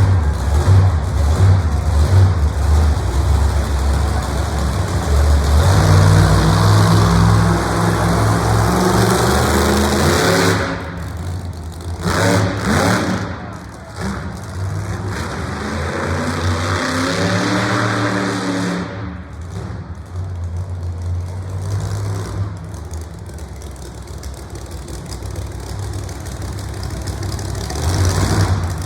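Monster truck engine revving hard, its pitch rising and falling again and again, with short drops in level about eleven and nineteen seconds in.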